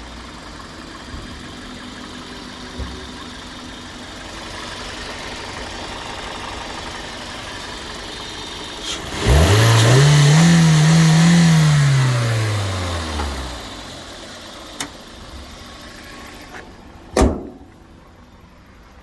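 Toyota Corolla 1.6 petrol inline-four engine revved once about halfway through: the pitch climbs quickly, holds near the top for a couple of seconds, then falls back over about two seconds. A sharp knock comes near the end.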